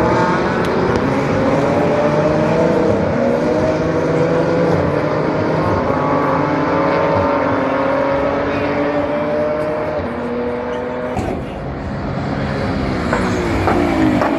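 GT race car engines running hard on track, several engine notes overlapping and slowly climbing in pitch for about ten seconds. The sound dips about eleven seconds in, then another car's engine note rises and falls as it passes near the end.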